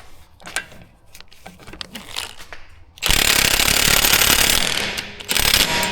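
Impact wrench hammering on a front suspension bolt in two bursts, one about a second and a half long and a short one after it, following a few light clicks of tools. The bolt does not free up and is left to soak.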